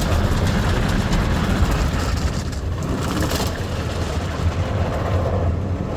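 Ryko SoftGloss Maxx automatic car wash running over a stopped car, heard from inside the car: a steady low hum of the machinery and water, with a brief louder hiss about three seconds in.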